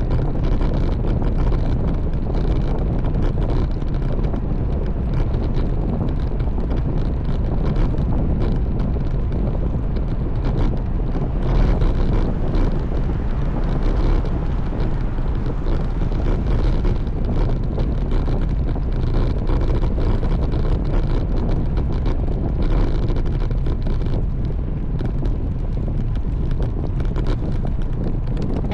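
Steady wind rushing over the microphone on a moving road bike, a continuous low rumbling noise.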